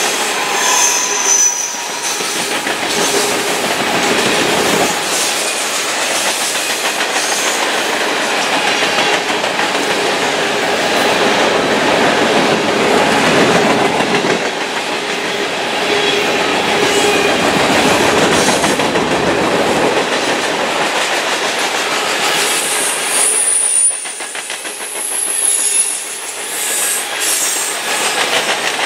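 A freight train's cars, open-top hoppers and gondolas, rolling steadily past at close range, with a continuous rumble and clatter of wheels on the rails. Thin high wheel squeals sound briefly about a second in and again near the end.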